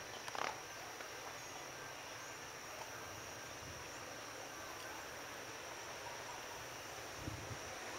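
Steady outdoor storm-night ambience: an even hiss with a constant high-pitched tone, a short rustle just after the start and a brief low thump about seven seconds in, with no thunder rolling.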